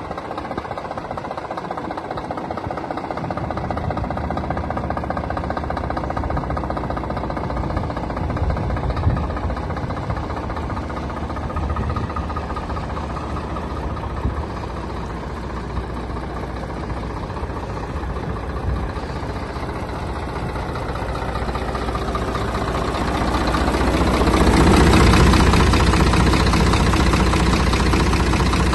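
Scania truck's diesel engine idling steadily with a knocking diesel clatter. About 23 seconds in it grows louder and fuller and stays that way.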